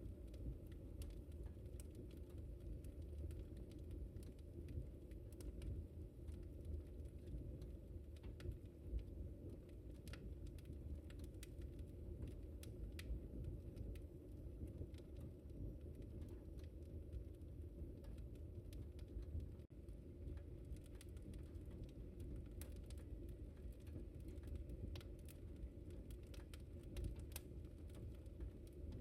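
Wood fire crackling in a fireplace: a low steady rumble from the burning fire with many small sharp pops and snaps scattered through it, coming more thickly near the end.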